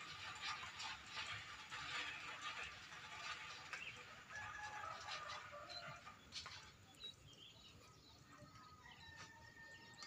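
Faint chirps and calls of birds over a rice paddy, with a dense patter of short dry ticks in the first half and one held whistle-like call near the end.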